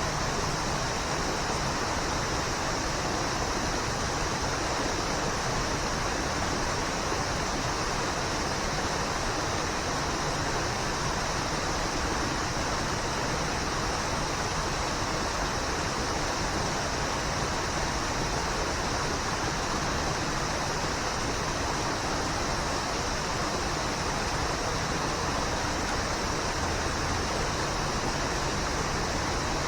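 Waterfall: a steady, even rush of falling water without a break.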